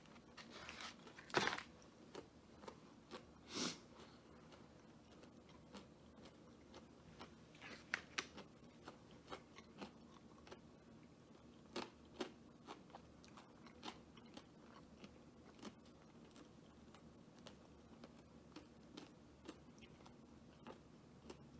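A person eating crispy fried food at close range: a few crunchy bites in the first few seconds, then quiet chewing with faint scattered clicks.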